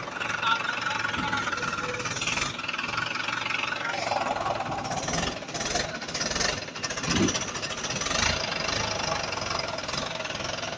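Tractor diesel engine running steadily, with a couple of short surges in pitch near the end.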